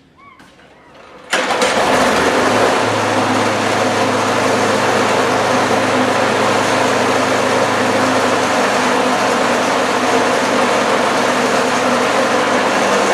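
Snapper self-propelled mower's 6.75 hp Briggs & Stratton overhead-valve engine catching on a pull about a second in, then running steadily. It is a cold start after the mower has sat unused for a long while.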